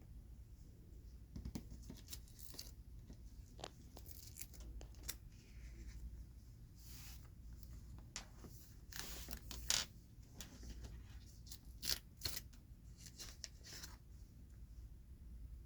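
Oversized Pokémon cards being handled close to the microphone: scattered soft scrapes, rustles and taps, with two sharper clicks about ten and twelve seconds in.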